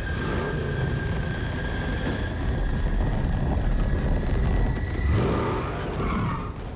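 Batmobile engine with a heavy, deep rumble that revs up twice, once about half a second in and again around five seconds in. A thin, steady high tone sounds over it.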